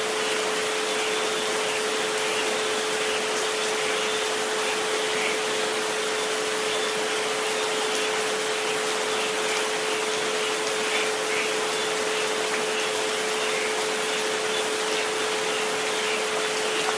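Steady rain noise with a constant pure tone near 432 Hz and a fainter one near 528 Hz held underneath, unchanging throughout.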